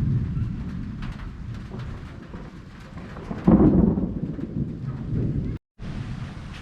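Thunder rumbling over steady rain in a thunderstorm, swelling to its loudest, sharp peal about three and a half seconds in. The sound drops out for a moment near the end.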